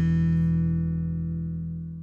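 Rock band's final guitar chord ringing out and fading away at the end of a song.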